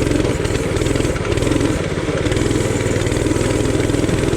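Coleman RT200 mini bike's 196 cc single-cylinder four-stroke engine running steadily under load as the bike rides through a water hole.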